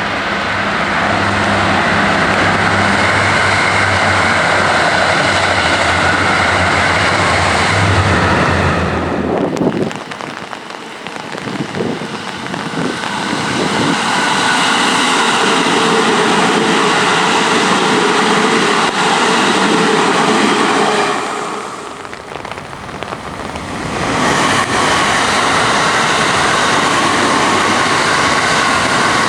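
Trains on the JR Tokaido Line running past a level crossing in the rain: long stretches of loud, steady running noise with rain, easing briefly about ten seconds in and again about twenty-two seconds in.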